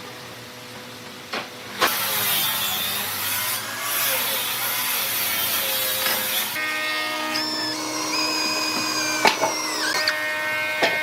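A power tool working wood: about two seconds in, coarse cutting noise starts and runs for about five seconds. It gives way to a high motor whine that steps and dips in pitch, with a few sharp clicks near the end.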